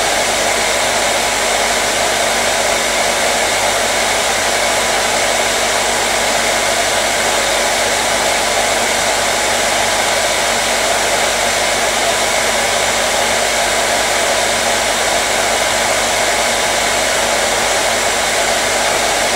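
Hair dryer running continuously at a steady speed: an even, loud rush of blown air with a faint motor hum under it.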